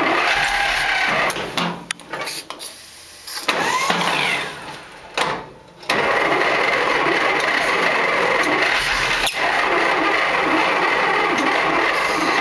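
Engine being cranked over without catching, with a break of a few seconds in the middle before cranking resumes. It won't start because fuel isn't reaching the carburetor.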